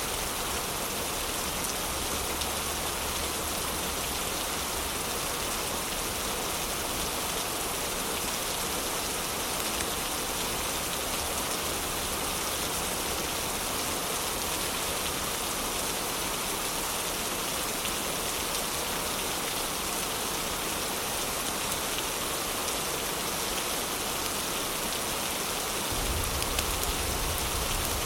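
Steady heavy rain, an even hiss of drops with no breaks; a deeper low rumble comes in near the end.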